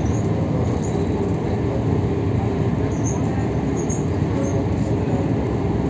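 Passenger train running at speed, heard from inside the carriage: a steady rumble of the wheels and running gear, with a few short, faint high squeaks.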